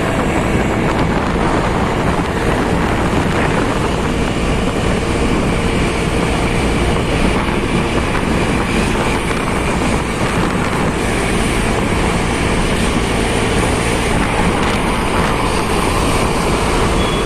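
Steady wind rush over the microphone mixed with engine and road noise from a motorcycle riding at speed.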